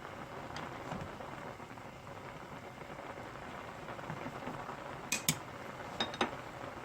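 Close-up eating sounds of instant ramyun: a steady wet, crackly noise of slurping and chewing noodles. Two pairs of sharp clinks come about five and six seconds in, typical of chopsticks or a spoon striking the bowl or pot.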